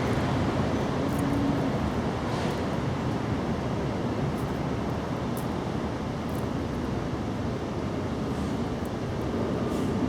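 Steady low rumbling background noise, with nothing standing out above it.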